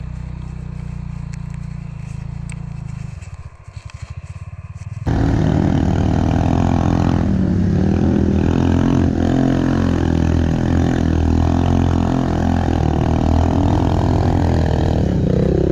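Pit bike engine running after a makeshift clutch repair. It runs low and steady at first, then sags into a slow chugging for a couple of seconds. About five seconds in, a much louder engine sound cuts in abruptly and keeps running steadily, swelling and easing a little.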